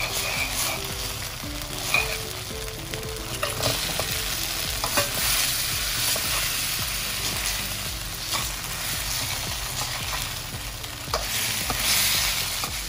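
Thick chilli sauce sizzling in a hot wok while fried chicken wings are tossed through it with a metal slotted spoon. Scattered clinks and scrapes of the spoon against the pan sound over the steady sizzle.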